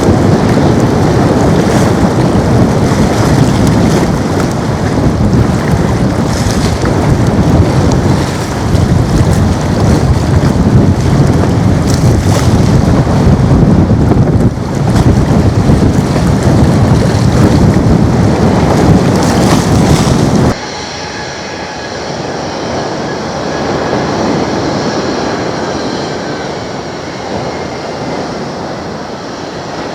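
Boeing 737 MAX 8's CFM LEAP-1B jet engines making a loud, rushing departure roar. About two-thirds of the way in it cuts sharply to quieter, steady jet engine noise with a faint high whine, from an Airbus A320.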